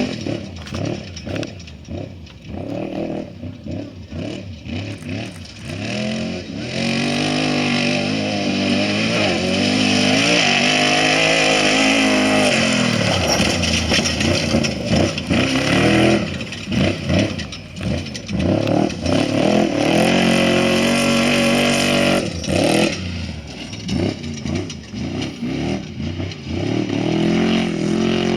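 Off-road race vehicle engines revving hard as they go by, pitch rising and falling as the throttle comes on and off. The loudest pass starts about a quarter of the way in and holds for several seconds with the engine climbing in pitch, then dies away before more bursts of throttle.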